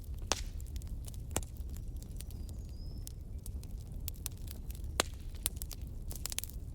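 Wood fire in a fireplace crackling, with sharp pops scattered irregularly over a steady low rumble of the flames; the loudest pops come about a third of a second in and again near five seconds. A faint short whistle sounds around three seconds in.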